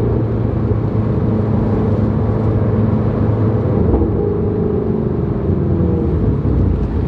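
Ford Shelby GT350R's 5.2-litre flat-plane-crank V8 running steadily at low revs, with a slight shift in pitch about four seconds in.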